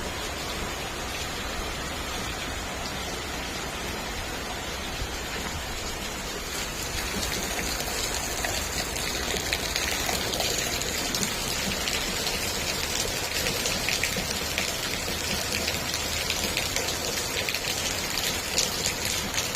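Steady rain falling, growing heavier about seven seconds in, with many separate drops ticking on a surface.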